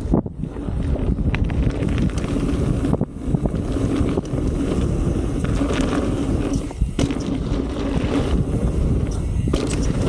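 Wind buffeting the microphone of a chest-mounted camera as a mountain bike rides down a dirt trail, tyres rumbling and the bike clattering over roots and bumps, with brief lulls about three and seven seconds in.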